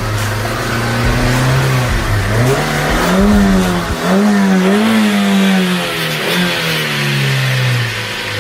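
Car engine revving, its pitch rising and falling several times over a steady rush of noise.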